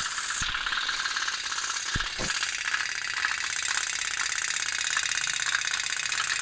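Tin pop-pop toy boat (kapal otok-otok) running, its heated boiler giving a rapid, steady putter.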